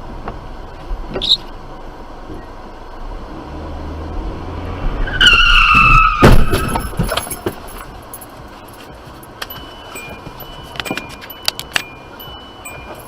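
Car crash: tyres squeal under hard braking, falling in pitch, then a loud impact about six seconds in, followed by scattered clicking and tinkling of debris.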